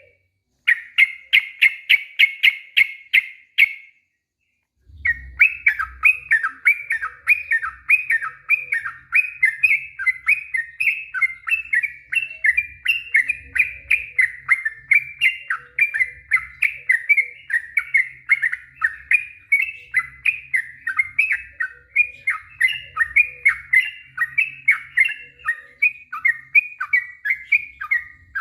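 Yellow-vented bulbul (trucuk) singing a long, rapid song. It starts with a fast, even trill of repeated notes for about three seconds, breaks off briefly, then runs on without pause as a stream of quick, slurred chattering notes.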